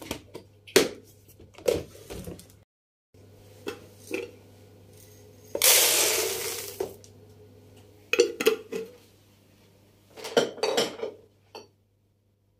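Glass jars and kitchenware clinking and knocking as they are handled and set down, in short scattered groups. A little past the middle comes a rushing noise lasting about a second.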